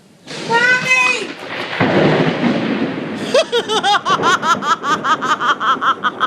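A loud clap of thunder breaks and rolls on as a woman screams "Mommy!" in fright. It is followed by a run of rapid, high-pitched laughter, about three bursts a second.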